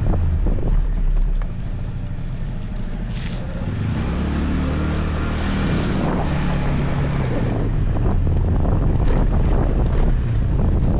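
Motor scooter engine running under way, with wind buffeting the microphone. The engine eases off about a second and a half in and picks up again from about four seconds in.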